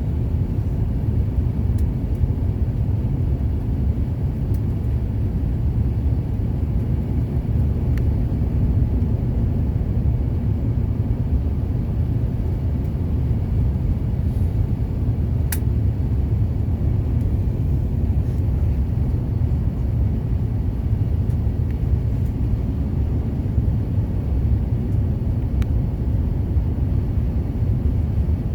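Steady low rumble inside a jet airliner's passenger cabin on the approach to landing: engine and airflow noise. A single sharp click sounds about halfway through.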